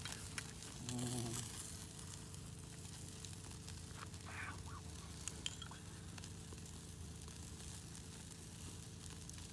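Burgers cooking on a grill over a campfire: faint sizzling with scattered small pops and crackles over a steady low hum.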